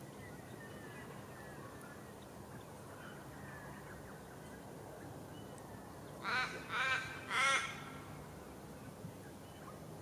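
A bird giving three loud calls in quick succession about six seconds in, the third the loudest.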